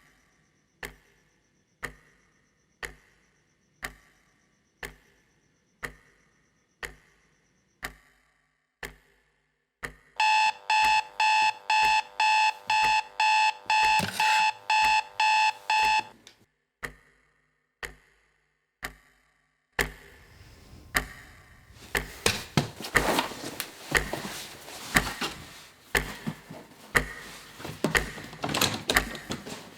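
A clock ticking about once a second. About a third of the way in, an electronic alarm clock beeps rapidly for about six seconds and stops, and the ticking carries on. In the last third, a denser run of irregular clicks and knocks takes over.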